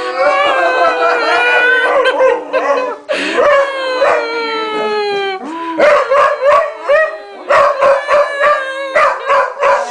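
A dog howling in long drawn-out calls, one sliding slowly down in pitch, then breaking into short, quick yips and barks at about two a second.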